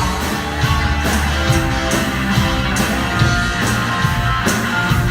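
Live cumbia band playing an instrumental intro: a steady beat of about two hits a second over bass and sustained instrument notes.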